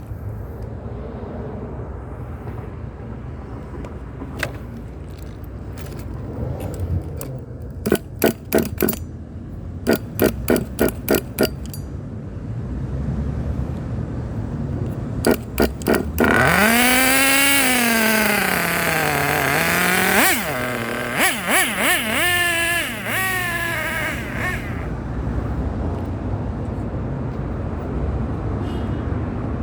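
Nitro RC car's small two-stroke glow race engine (Hyper engine in a Hyper VS): several quick groups of short throttle blips, then about eight seconds of a loud run whose pitch rises, falls and rises again as the car is driven, over a steady low idle rumble.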